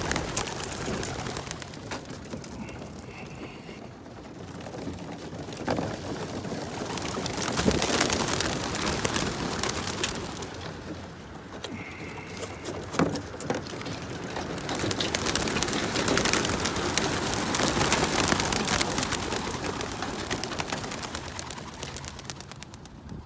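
A flock of racing pigeons let out of their transport crates, a dense clatter of wings that swells twice.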